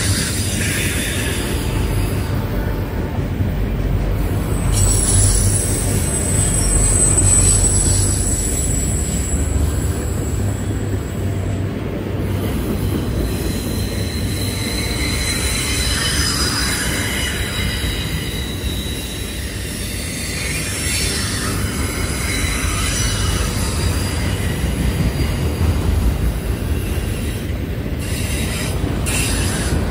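Loaded autorack freight cars rolling past with a steady low rumble of wheels on rail. A thin, high-pitched squeal from the wheels comes and goes, strongest from about five to twelve seconds in and again in the middle.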